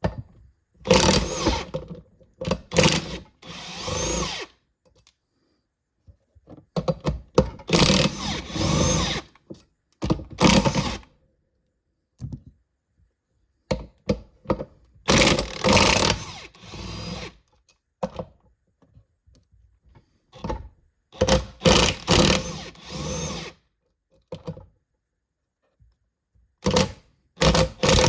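Impact wrench with a 14 mm socket running in repeated short bursts, each spinning up, as it loosens transmission case bolts.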